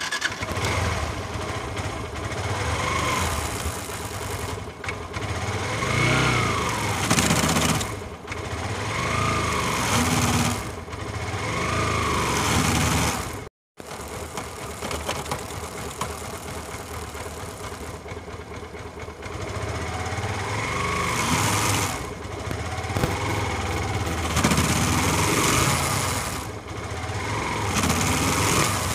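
Yamaha FZS version 3 motorcycle's single-cylinder engine running and revved up and back down several times, with a harsh grinding rattle as the clutch is let out. The mechanic traces this to a faulty clutch housing. The sound cuts out briefly about halfway.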